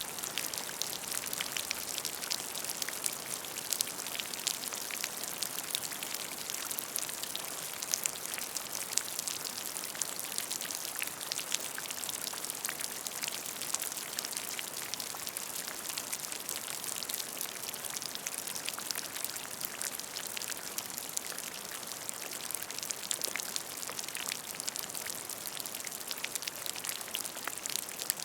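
Steady rain falling on a puddle: a dense hiss of drops with many small individual splashes and ticks on the water.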